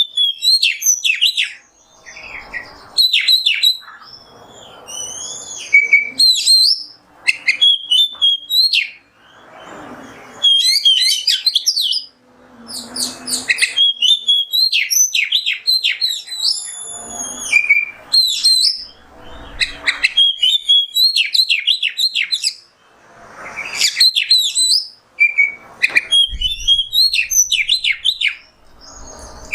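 Oriental magpie-robin (kacer) singing loudly: rapid, varied phrases of whistles, trills and sharp sweeping notes in bursts a second or two long, separated by brief pauses.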